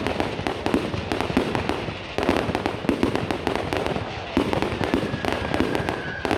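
Fireworks going off: dense crackling bangs in waves, with a fresh flurry about two seconds in and another past four seconds. A steady whistle joins near the end.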